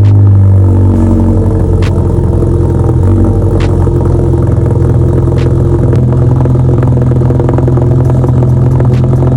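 Volkswagen GTI's turbocharged four-cylinder running at a fast, loud cold-start idle through a straight 3-inch turbo-back exhaust with the resonators deleted and a catless downpipe. The idle eases down a little about three seconds in and then holds steady.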